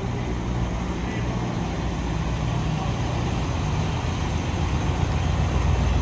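A car engine running steadily at idle with a low rumble, getting louder near the end.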